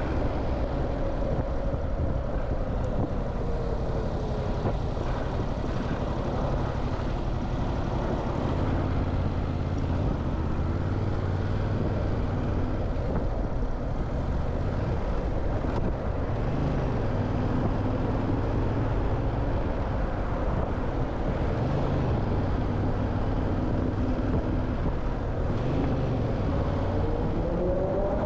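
Motorcycle engine running under way, with steady road and wind rumble. The engine note rises and falls a few times in the second half.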